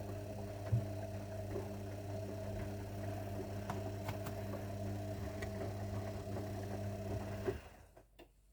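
Zanussi washing machine running with a steady electric hum and faint clicks inside. The hum cuts off suddenly near the end, followed by a couple of clicks.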